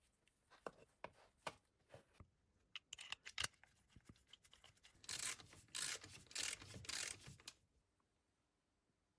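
A few light clicks and knocks, then a run of about five quick rubbing or scraping strokes.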